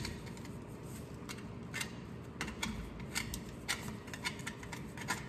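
Hand cleaning of the drive shaft yoke's U-joint cap seats: irregular light scratches and clicks of a tool on metal, sparse at first and coming more often after about two and a half seconds.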